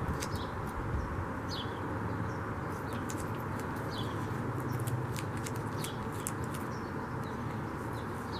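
Birds chirping in the background: short falling chirps every second or few, over a steady low rushing noise, with a few faint clicks.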